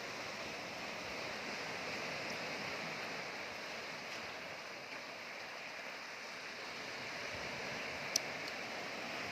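Sea waves washing steadily, with a single sharp click about eight seconds in.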